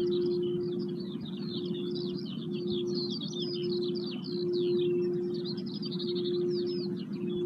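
Songbirds singing continuously outdoors, with a dense run of quick, high chirps and trills. Under them is a steady low humming tone that dips briefly about once a second.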